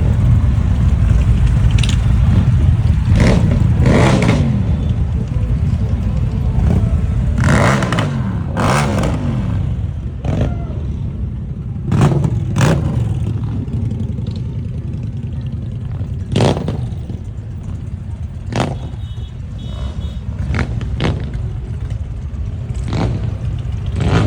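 Motorcycle engines running with a steady low rumble. A bike revs and goes by twice, about three and eight seconds in, amid scattered clattering knocks.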